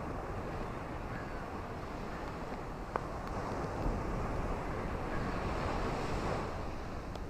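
Ocean surf washing on a beach, a steady rush of waves that swells up about four seconds in and eases off again, with wind rumbling on the microphone. A single sharp click about three seconds in.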